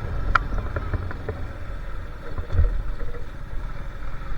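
Motorcycle running on the move, a steady low rumble with wind buffeting the microphone, and a few short knocks and rattles, one about two and a half seconds in.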